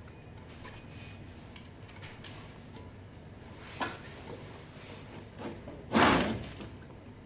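Hand work on parts and tools: scattered small clicks, a short knock near the middle, and a louder clunk about six seconds in.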